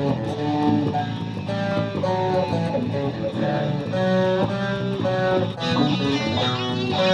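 A school string orchestra playing, with a steady run of short, separate notes.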